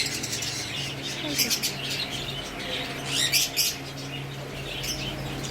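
Many small cage birds chirping and chattering, with short clusters of sharper chirps a few times, over a steady low hum.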